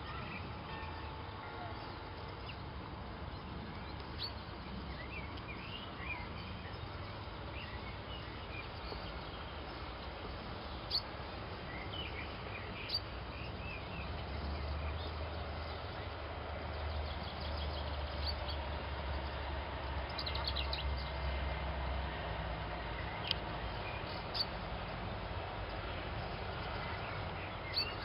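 Outdoor ambience: small birds chirping now and then over a steady background hiss, with a low rumble that swells from about halfway through and fades again near the three-quarter mark.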